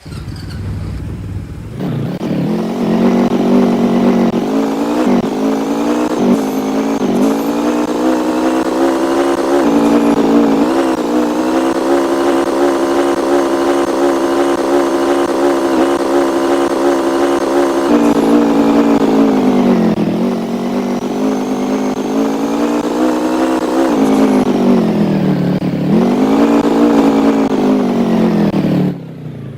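A motor vehicle's engine under way, its pitch climbing and dropping again and again as it accelerates and shifts gears. It holds steady for several seconds in the middle, then falls off and picks up twice more before cutting short near the end.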